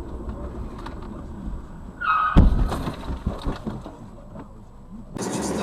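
Low rumble of a car on the road, then about two seconds in a brief high squeal followed at once by a loud bang of a car collision, with a rattling clatter that dies away over the next second or so. Near the end the sound cuts abruptly to a louder, hissing noise.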